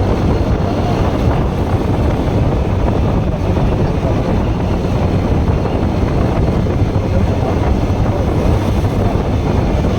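Bajaj Pulsar NS160 single-cylinder motorcycle engine running at a steady road speed, with wind buffeting the microphone.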